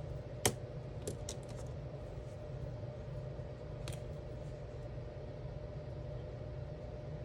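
Alcohol markers being handled, clicking and tapping: one sharp click about half a second in, a few lighter clicks a second later and one more near four seconds, over a steady low hum.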